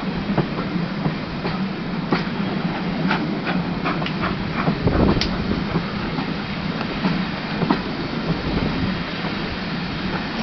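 Passenger train coaches running along the rails, heard from an open carriage window: a steady rolling rumble with irregular clicks from the wheels over the track.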